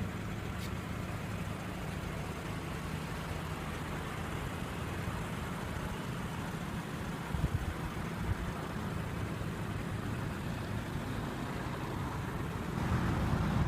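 A car engine idling steadily with a low, even hum. There is a brief knock about seven and a half seconds in.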